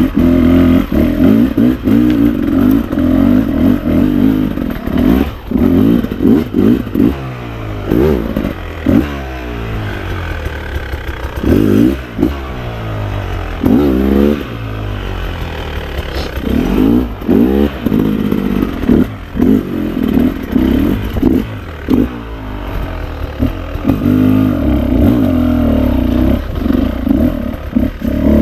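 Beta RR 300 two-stroke enduro motorcycle engine under way, revving up and falling back again and again through gear changes, with steadier stretches between.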